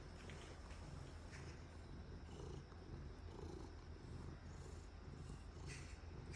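Domestic cat purring steadily in a low, pulsing rumble while being scratched with a back scratcher, a sign it is content.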